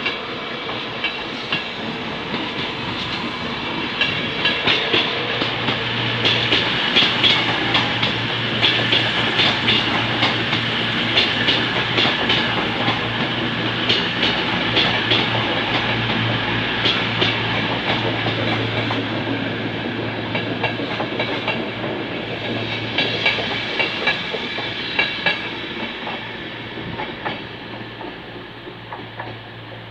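Trains moving through a station platform: a CrossCountry train runs in alongside, its wheels clacking over rail joints in a long irregular run of clicks over a steady low hum. The clatter is loudest through the middle and fades near the end.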